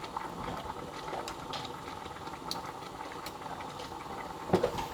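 Steady simmering hiss and bubbling from a pot on the stove as soy wax melts, with scattered small clicks and a brief knock near the end.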